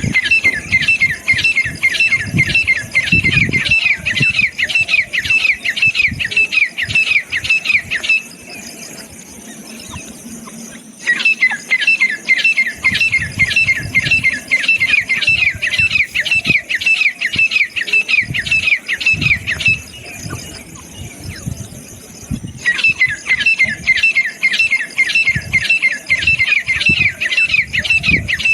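Grey francolin (desi teetar) calling: fast runs of repeated high, ringing notes, several a second, in three long bouts of about eight seconds separated by short pauses.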